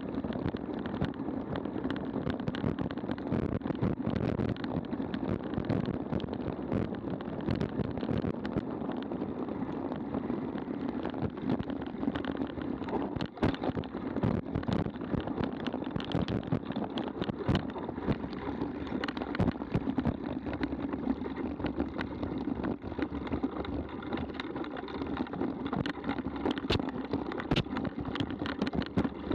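Mountain bike ridden along a dirt trail, heard from a camera mounted on the bike or rider: a continuous rumble of tyres and wind on the microphone, broken by frequent clicks and knocks as the bike rattles over rough ground.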